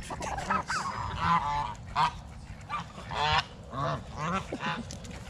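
Domestic geese honking, a string of repeated calls that waver in pitch, jostling for feed.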